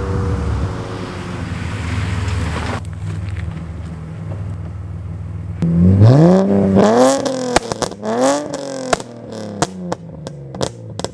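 BMW E46 330i's M54 straight-six running through a 2.5-inch single exhaust with a Turboworks muffler: steady idle, then, a little past halfway, several quick throttle blips that rise and fall back, with sharp crackles and pops as the revs drop.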